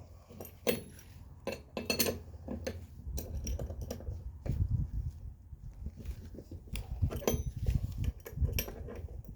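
Irregular metal clinks and knocks of hand wrenches against the steel strut parts and nut, with a low rumble joining about three seconds in.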